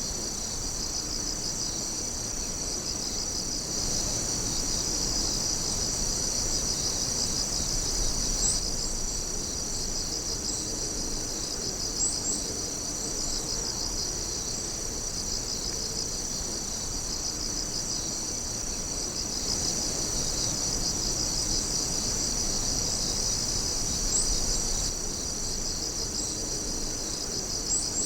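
Chorus of night insects calling: several high, steady trills layered together, one of them pulsing rapidly, with a few brief higher chirps now and then.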